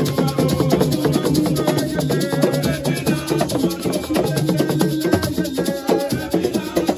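Live Senegalese assiko percussion music: drums and rattling shakers playing a fast, dense rhythm, with a pitched melody line over it.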